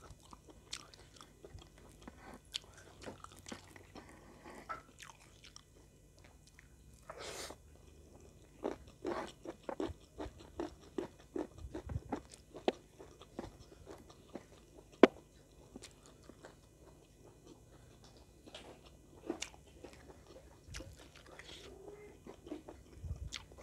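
Close-up eating sounds of a person eating rice and chicken by hand: irregular wet chewing, crunching and mouth clicks. There is a short breathy hiss about seven seconds in and one sharp click about fifteen seconds in.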